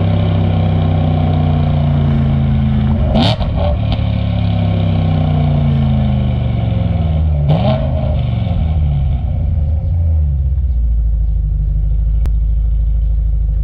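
Supercharged BMW E92 M3's V8 engine coasting down, its revs falling gradually. A short sharp burst from the engine comes about three seconds in and again about seven and a half seconds in. It then settles into a steady idle about ten seconds in.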